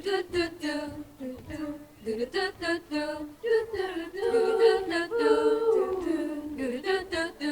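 High-school choir singing a cappella, without words: short detached notes at first, then longer held chords in several voices from about three and a half seconds in.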